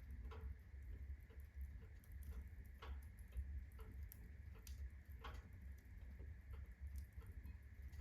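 Unsplit birch logs burning in a fireplace at full blaze, crackling with scattered sharp pops at irregular intervals over a low steady rumble.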